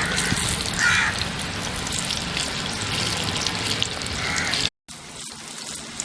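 Chicken vadas deep-frying in hot oil: a dense, steady crackling sizzle. It cuts out abruptly about three-quarters of the way through and comes back quieter.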